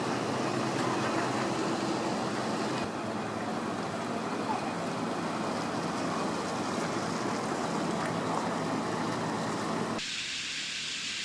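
Motor vessel's engine running steadily underway, with water rushing along the hull. The sound changes abruptly twice.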